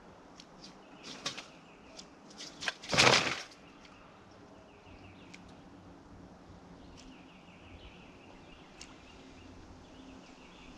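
Quiet open-air background with a bird singing faint, repeated short chirping phrases, a few light clicks, and one short loud noisy burst about three seconds in.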